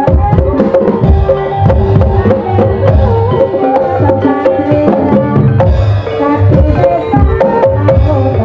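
Live Javanese gamelan music for an ebeg dance: hand drums beat a busy rhythm under a steady pitched melody.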